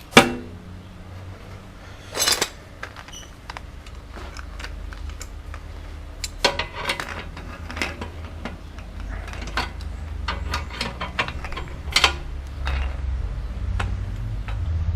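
Metal clanks and clicks of a car jack being set under a motorcycle's exhaust and worked, with one sharp clank just after the start and scattered knocks after it, over a low rumble that grows from about four seconds in.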